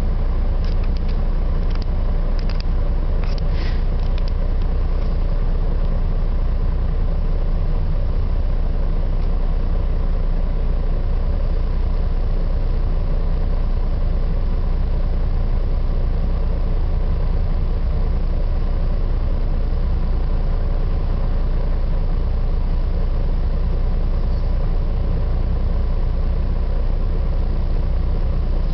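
Steady low rumble of a road vehicle's engine and road noise while driving, with a few light clicks in the first few seconds.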